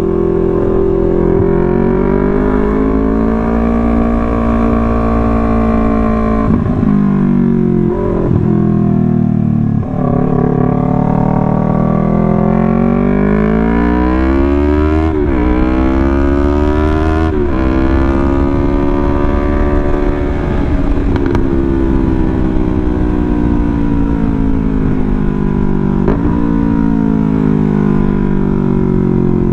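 Yamaha R3 parallel-twin engine under way, its pitch climbing with the revs and dropping sharply at several gear changes, then rising again. The exhaust is loud.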